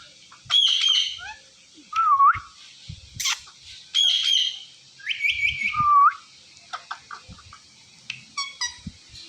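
Indian ringneck parakeet calling: about five short, loud whistled calls that swoop up and down in pitch over the first six seconds, then softer chirps and clicks.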